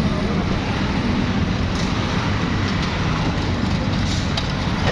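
Steady low rumble of a moving road vehicle, with a few light clicks or rattles.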